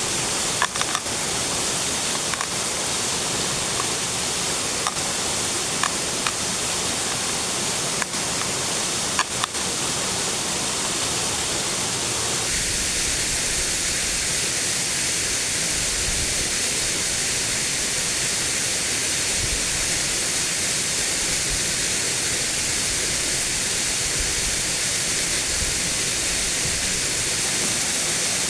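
Steady rush of a waterfall, with a few sharp clicks in the first ten seconds; the sound's character shifts slightly about halfway through.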